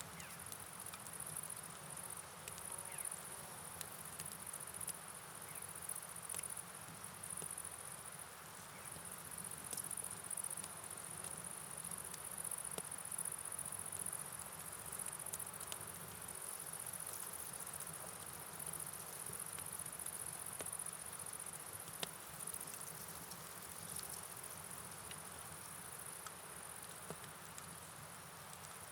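Night ambience: a high, wavering chorus of crickets over a steady hiss of rain and flowing river water, with scattered light ticks of drops.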